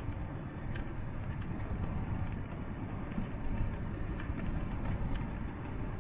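Steady low rumble of a vehicle driving, with faint light ticks scattered irregularly through it.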